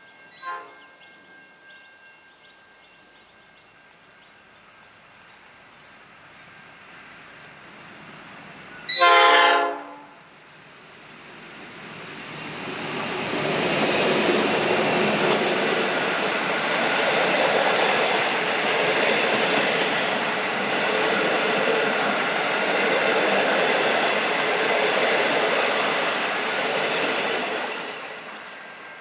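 A train sounds one short warning blast on its horn or whistle, about a second long, then passes close by, the rumble and clatter building, holding for about fifteen seconds and fading away.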